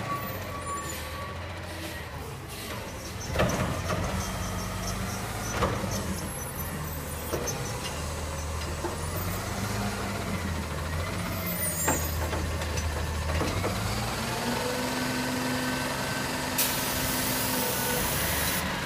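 Garbage truck's engine running and revving up and down, with a few sharp knocks, then a hiss of air brakes for about two seconds near the end.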